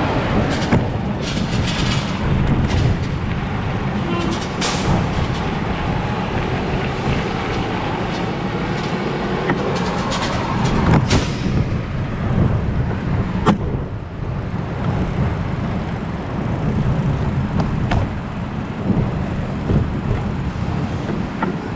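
Riding noise from a moving bicycle: a steady low rumble of wind and tyre noise, broken by a few sharp clicks and rattles, the loudest about eleven seconds in.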